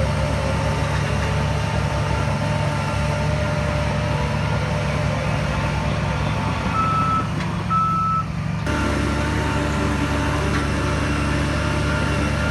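Heavy diesel earth-moving machine running steadily, with two short beeps of a reversing alarm a little past the middle.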